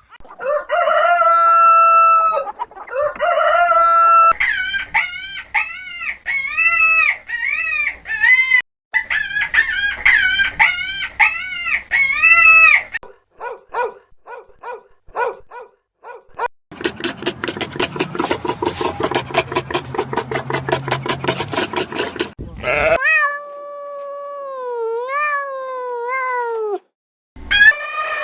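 A run of different farm animal calls, one clip after another: long pitched calls, a series of repeated calls, a stretch of rapid short calls and a noisy rhythmic passage, then a long wavering call near the end.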